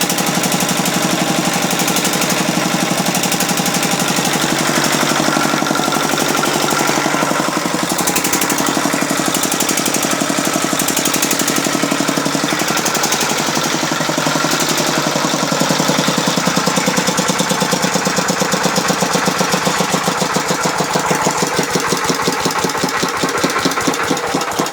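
A 5 hp stationary engine running steadily with a rapid, even chugging beat; toward the end the individual firing strokes stand out more clearly.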